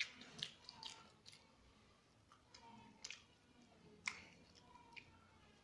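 Quiet close-up chewing of soft food (rice and smashed fried egg), with a few sharp mouth clicks and smacks scattered through it.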